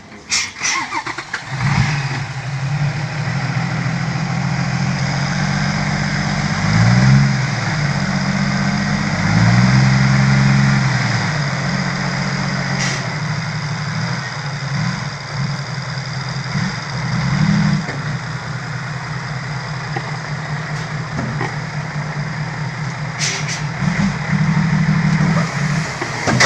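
Six-wheel dump truck's engine starting about two seconds in, then idling, revved up and back down twice shortly after.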